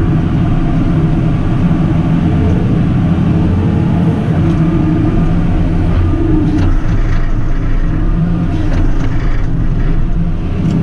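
Diesel engine of a JCB 310S running steadily at working revs, its pitch shifting a little about six to seven seconds in.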